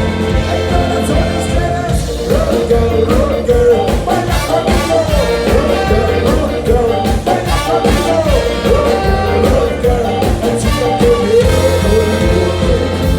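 Live ska band playing, with a lead vocal over a steady bass line and regular drum hits.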